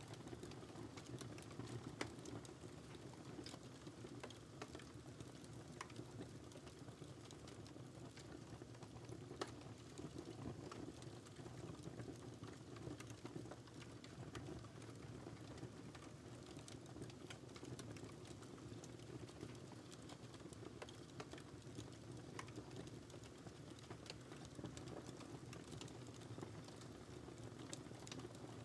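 Wood fire crackling in a fireplace: faint, irregular small crackles and pops over a steady low rumble of burning, with a louder pop about 2 seconds in and another about 9 seconds in.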